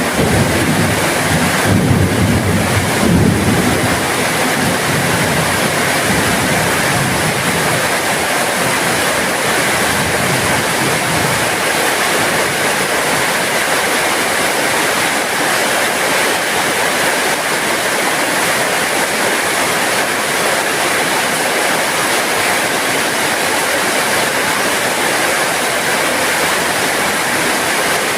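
Steady heavy rain, an even hiss of water. A low rumble under it dies away over roughly the first ten seconds.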